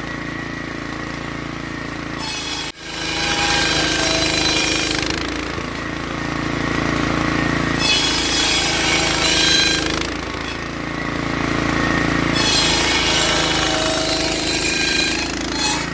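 Rocking-table circular saw running with a steady drone, its blade biting through firewood logs three times, each cut lasting a couple of seconds with a rising, whining scream from the wood.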